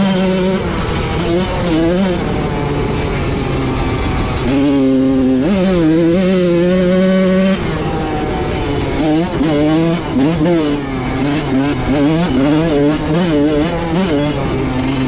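Dirt bike engine being ridden: held at steady high revs, then the throttle is chopped about seven and a half seconds in, followed by a run of short revs rising and falling.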